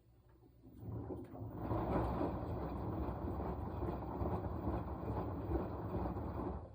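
Washing machine drum turning in the wash cycle, tumbling the load: the noise starts about a second in, grows louder, runs steadily, and stops near the end as the drum pauses.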